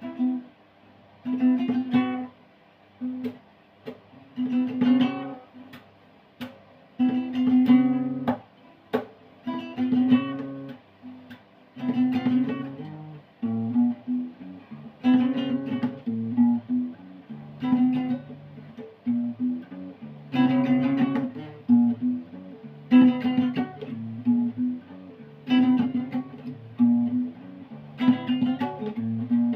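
Acoustic guitar strummed in a repeating chord pattern, with a strong burst of strumming about every two and a half seconds.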